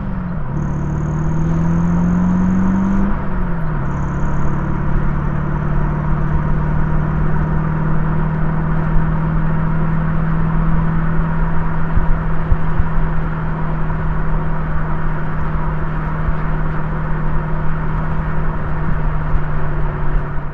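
2003 Morgan Plus 8's Rover V8 engine, heard from inside the car, pulling up through a gear, shifting up about three seconds in, then holding a steady cruise at even revs over a constant haze of road and wind noise.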